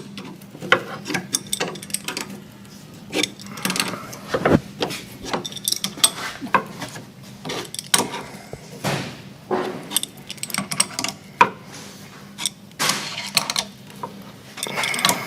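Hand tools clicking and scraping on a steering drag link as its end plug is screwed in to lock the ball against its spring: irregular metal-on-metal clicks and taps.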